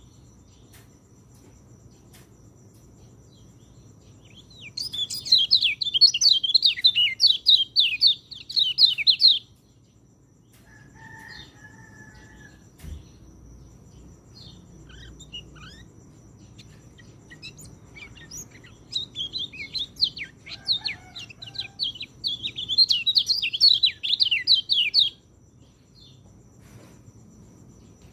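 White-eye (pleci) singing: two long runs of rapid, high twittering notes, each lasting about four to six seconds, with a short pause between them.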